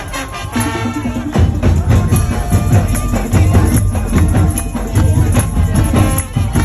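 Madurese daul dug-dug percussion band playing loudly: heavy drum beats in a driving rhythm, with jingling percussion and a melody carried over them.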